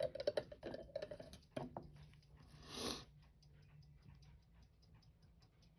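Small metal clicks and taps of watchmaker's tweezers and tools on the parts of a watch movement being taken apart, thick in the first two seconds and then sparse and faint, with a short breathy hiss about three seconds in.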